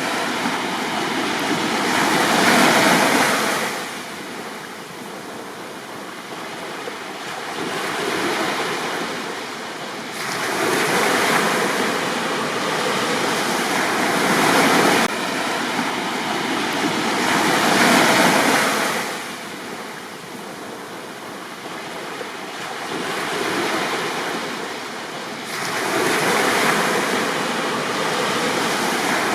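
Gentle sea waves breaking and washing up on a beach. The surf swells and fades in repeated surges a few seconds long.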